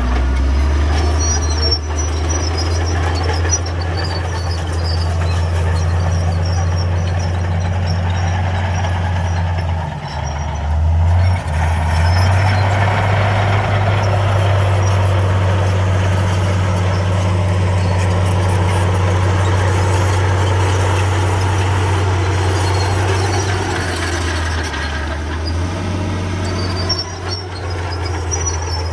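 Heavy diesel engine of construction machinery running steadily under load, its engine speed shifting about ten seconds in and again near the end.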